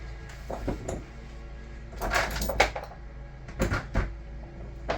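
Metal engine parts and hand tools being handled and set down on a workbench: a handful of short clinks and clatters spread through the few seconds, the loudest about two and a half seconds in.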